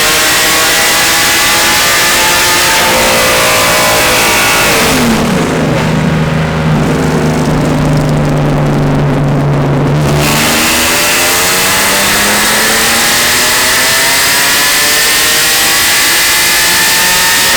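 Honda J35A4 V6 race engine pulling at full throttle, the revs climbing steadily. About five seconds in it drops back to a steady lower note, and about ten seconds in it climbs through the revs again.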